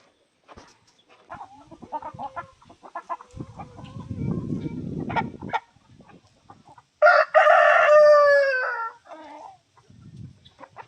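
Rooster crowing once, a loud call of about two seconds that starts about seven seconds in and falls away at the end. Before it come short scattered clucks from the flock and a brief low rumble.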